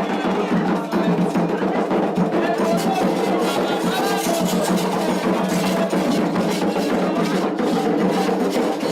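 Candomblé ceremonial music: hand drums and percussion playing a dense, steady rhythm, with voices singing over it.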